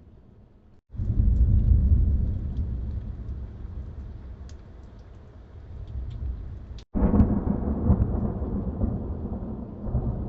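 Thunderstorm with rain: two rolls of thunder, each starting suddenly about a second in and again near seven seconds, then slowly dying away, with rain falling steadily underneath.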